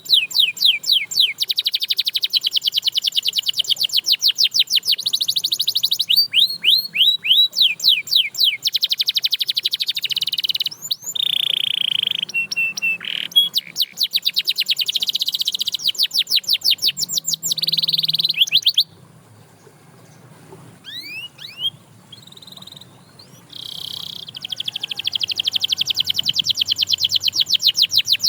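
Canary singing: long fast trills of rapidly repeated high notes, broken by a held whistle partway through and a pause of a few seconds with only scattered chirps before the trills resume.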